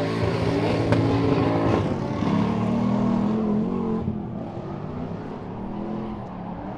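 Two drift cars' engines revving hard on a tandem run, the pitch rising and falling as the throttle is worked through the corner. Loudest in the first few seconds, with one sharp crack about a second in, then quieter as they move away.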